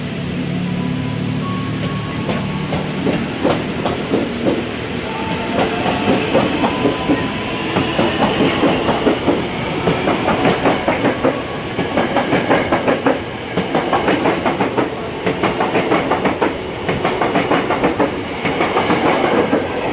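Electric commuter train running past close by, its wheels clattering over the rail joints in a quick, regular rhythm, with a low motor hum in the first few seconds.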